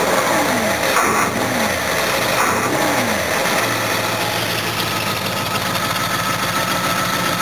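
Jaguar's GMH 308 V8 running after a cold start, its pitch dipping and rising three times in the first three seconds, then settling to a steady idle. A thin, steady high whine comes in about four seconds in.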